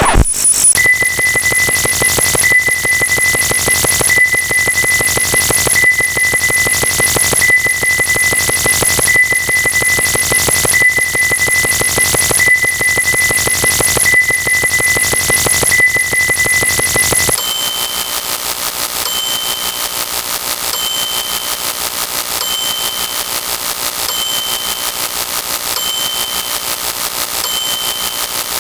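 Synthetic electronic sound effects: a rapid buzzing pulse with a high beep recurring about every second and a half. About two-thirds of the way through it switches abruptly to a thinner, quieter pulse with a different, higher beep repeating a little faster.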